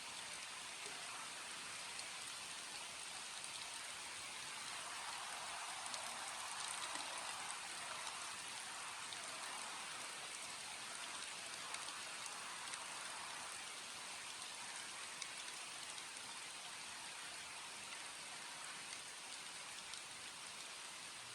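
Steady rainfall: a dense, even hiss with scattered ticks of individual drops, growing a little heavier a few seconds in and easing off again.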